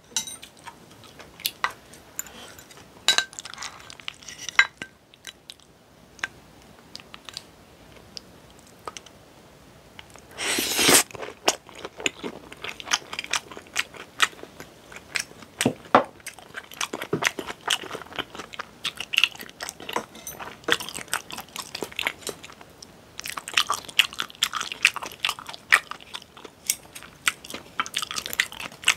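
Close-miked eating: crunching and chewing of crispy fried snacks, with many short clicks and crackles and one louder, longer crunchy bite about a third of the way in.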